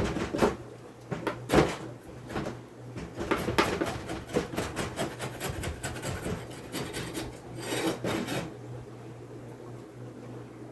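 Wooden beehive parts scraping and rubbing against each other, a run of irregular rasping strokes with a few knocks, stopping about eight seconds in.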